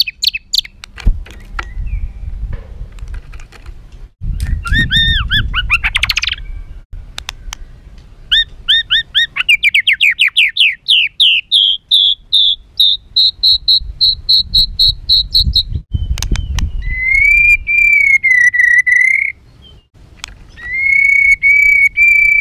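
White-rumped shama (murai batu) singing its harsh, aggressive fighting song: fast runs of sharp repeated notes, a quickening series that climbs in pitch, then a long wavering whistle and a held whistle near the end.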